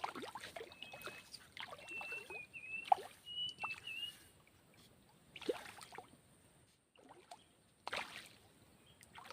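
Light water splashes and sloshing with scattered knocks while fishing at the river's edge, with a run of short, high chirping notes in the first few seconds.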